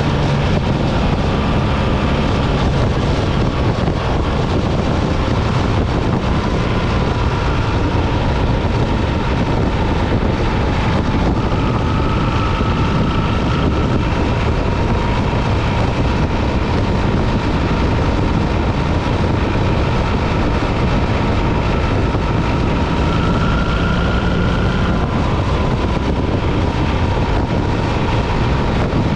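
BMW R 1300 GS boxer-twin engine running steadily at road speed, heard over heavy wind rush.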